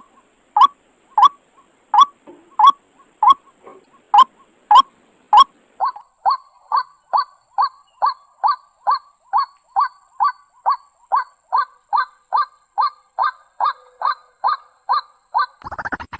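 White-breasted waterhen (ruak-ruak) giving its repeated honking 'kruak' call, under two calls a second at first, quickening to about three a second from about six seconds in. Music comes in at the very end.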